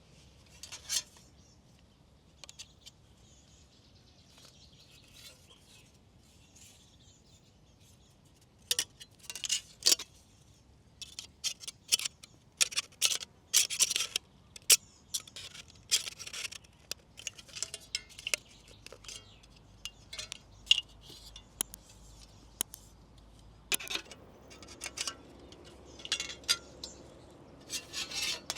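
Small metal parts clinking and clicking as they are handled, in irregular bunches of sharp taps from about nine seconds in, after a quiet stretch with a single click.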